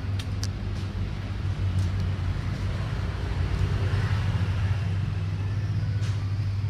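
Steady low mechanical hum of a running motor, with a couple of light clicks just after the start.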